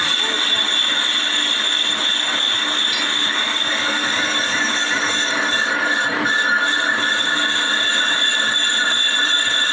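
Lathe skimming a brake disc, the cutting tool running steadily across the spinning metal face with a steady high-pitched ringing whine.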